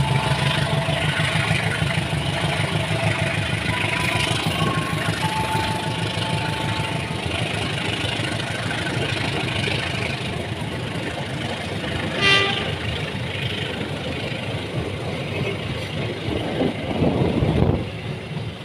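Passenger coaches of a diesel-hauled train rolling past, wheels clattering steadily on the rails, with a rhythmic low rumble that fades over the first seconds. A brief high toot about twelve seconds in, and a short loud low rumble near the end.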